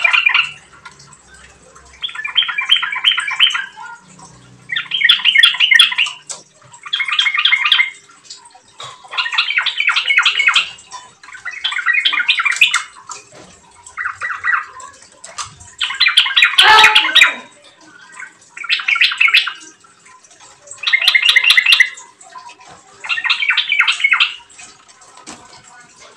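Yellow-vented bulbul (trucukan) singing, about eleven quick phrases of rapid, jumbled notes in a row, each about a second long, with short pauses between.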